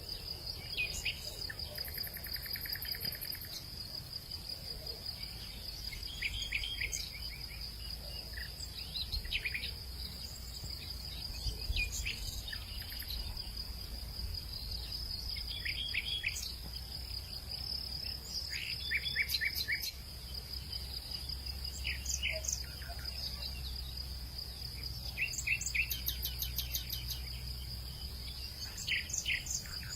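Outdoor evening ambience: insects keep up a steady high-pitched trill while birds call now and then in short groups of quick chirps. A low rumble of wind sits underneath.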